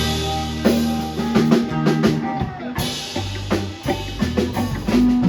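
Live band playing an instrumental break between vocal lines: guitars, bass guitar and a drum kit with snare and kick drum hits.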